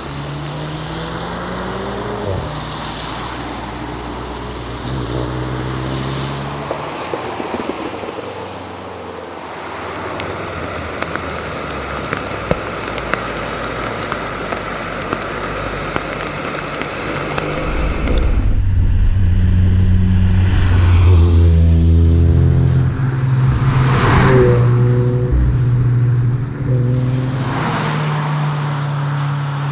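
Subaru BRZ's flat-four boxer engine running under way, revving up and dropping back repeatedly as it shifts gears. It is loudest and revs hardest in the second half.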